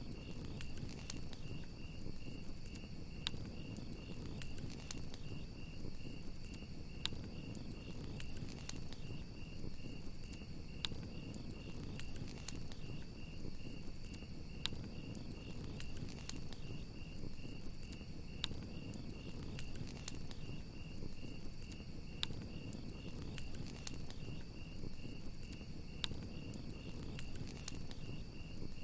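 Campfire crackling, with scattered sharp pops and a low rumbling hiss, while crickets chirp in a steady, fast-pulsing trill.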